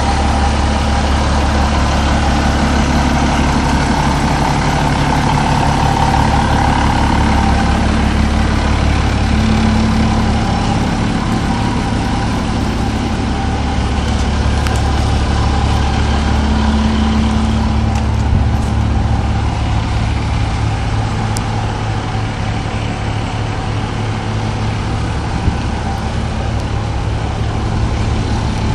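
Diesel engine of a Nippon Sharyo DH508 crawler pile driver running steadily at idle, a deep, even hum.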